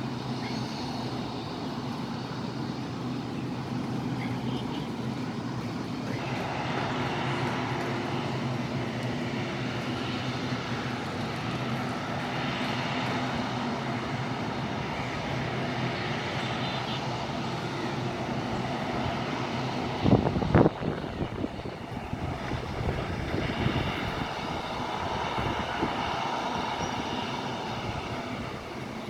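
Airplane engines running: a steady hum under a rushing noise that grows stronger about six seconds in. A few loud thumps come about two-thirds of the way through.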